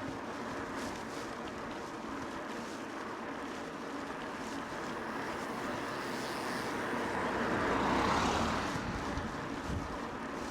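Steady rushing of wind and tyres while riding a mountain bike, swelling louder about eight seconds in and then easing back.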